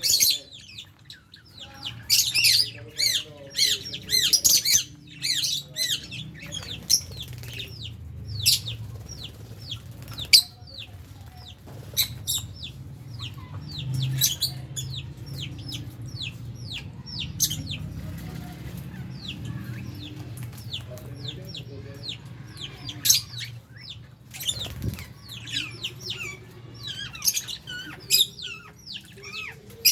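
A lovebird flock chirping and calling, with many short, sharp, high calls overlapping throughout, over a low steady hum.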